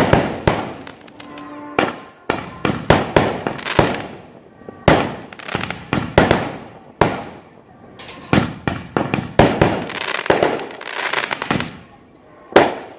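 Fireworks and firecrackers going off: a dense, irregular run of sharp bangs and crackles, each trailing off briefly, with hardly a pause between them.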